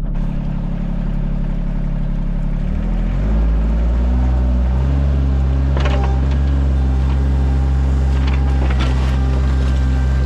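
Sany mini excavator's diesel engine running steadily, its pitch rising about three seconds in as the throttle is opened up, then holding at the higher speed. A few sharp knocks come through in the second half.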